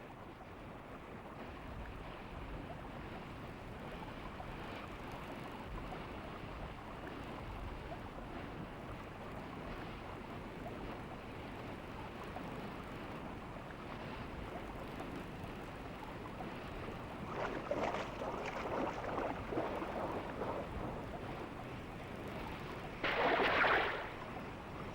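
Steady wash of coastal water and wind, with a few short louder sounds about three quarters of the way through and a louder burst about a second long near the end.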